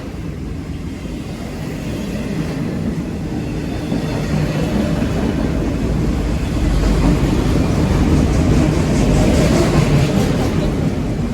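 Long freight train's cars rolling past, a steady low rumble that grows louder, at its loudest about eight to ten seconds in, then easing slightly.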